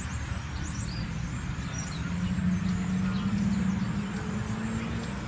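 Birds chirping in short, high calls, mostly in the first couple of seconds, over a steady low rumble of traffic or an engine. A steady hum comes in about two seconds in.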